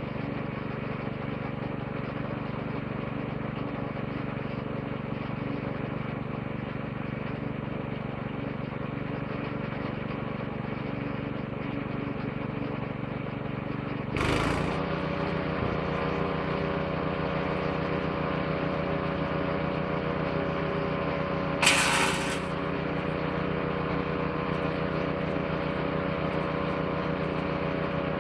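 Woodchipper's petrol engine running steadily. About halfway through it gets louder after a sudden burst of noise, and a second short, loud burst comes about eight seconds later.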